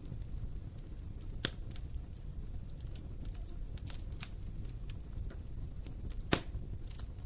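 Wood fire burning in an open fireplace: a steady low rumble of flames with scattered sharp crackles and snaps, one loud pop a little past six seconds in.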